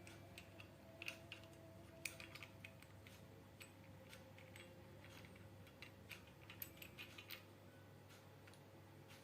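Near silence: faint, scattered light clicks and taps over a steady low hum, the clicks thinning out in the second half.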